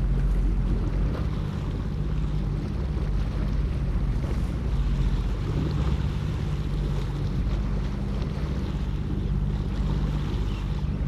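Jet ski engine humming steadily while water washes against the hull, with heavy wind buffeting on the microphone.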